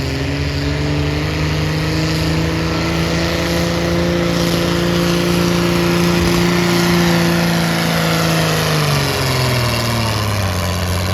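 Engine of a pulling tractor or truck running hard under load while dragging the weight sled, holding a steady pitch for about eight seconds. The pitch then drops away as the rig slows to a stop at the end of the pull.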